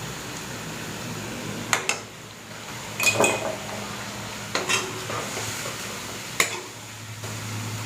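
Metal spoon clinking against a cooking pan while stirring chicken curry, in four short bouts of clinks, the loudest about three seconds in, over a steady low background hiss.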